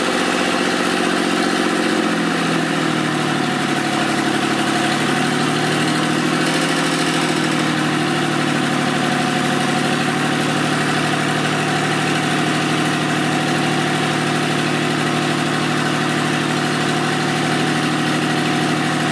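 Freshly rebuilt three-cylinder diesel engine of a John Deere 855 compact tractor running on its own shortly after its first start. Its speed drops slightly about two seconds in, then holds steady.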